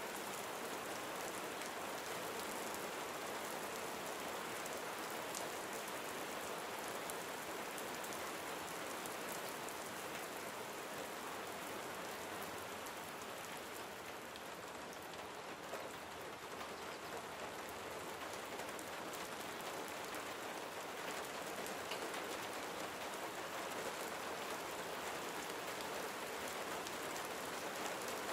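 Steady gentle rain falling on a surface, a dense even patter of raindrops that eases slightly about halfway through.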